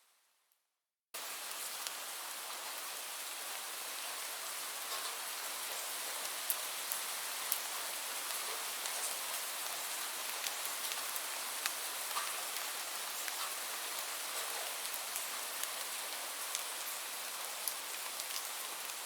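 Steady rainfall: an even hiss scattered with sharp ticks of single drops. It starts abruptly about a second in, after a brief silence.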